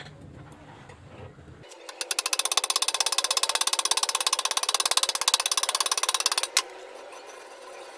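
Electric arc welding: a loud, rapid, evenly pulsing crackle starts about two seconds in and cuts off suddenly a little past six seconds, as the arc is struck and then broken.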